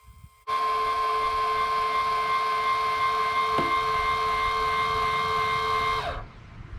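Electric linear actuator motor whining steadily as it tilts the outboard motor. It starts suddenly about half a second in, runs about five and a half seconds, then drops in pitch and stops.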